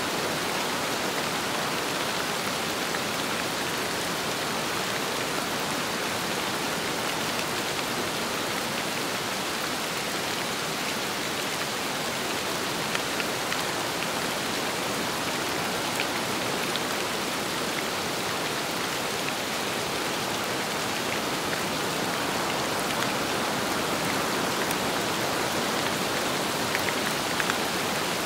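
Steady rain falling with wind: an even, continuous hiss with a few sharper drop ticks here and there.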